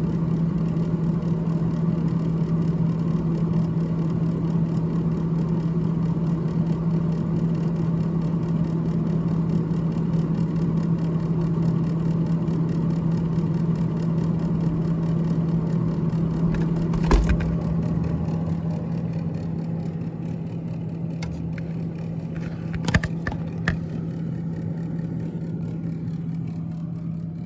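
GE top-freezer refrigerator's freezer fan running with a steady hum and rushing air noise. There is a knock about 17 seconds in and a few clicks around 23 seconds, and the sound eases off a little over the last several seconds.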